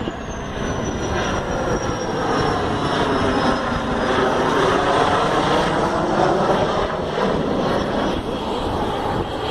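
Canadair CT-114 Tutor jets of the Snowbirds passing low overhead on their landing approach: a steady jet roar with a high turbine whine that slowly falls in pitch as they go by.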